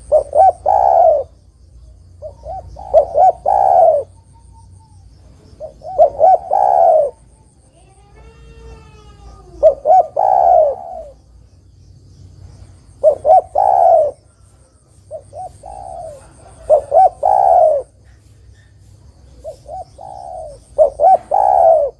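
Spotted dove (derkuku) cooing, repeating its phrase about every three seconds: a few short clipped notes, then a longer drawn-out coo.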